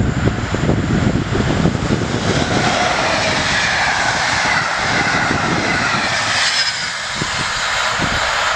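Electric-hauled express passenger train passing at speed: a heavy low rumble as the locomotive and first coaches go by, then the rush of the coaches' wheels on the rails with a faint falling whine, the rumble dropping away after about six seconds as the train recedes.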